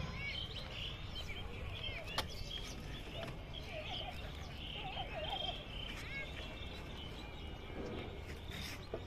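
Birds calling with short, arching chirps scattered throughout, over a steady low background rumble; a single sharp click about two seconds in.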